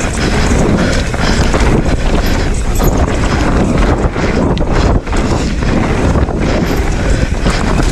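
Wind buffeting the microphone over the tyre roar and rattling knocks of a Specialized Stumpjumper EVO mountain bike riding a dirt trail.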